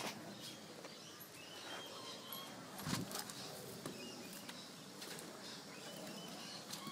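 Quiet outdoor ambience with birds chirping now and then, and a few soft knocks, the loudest about three seconds in.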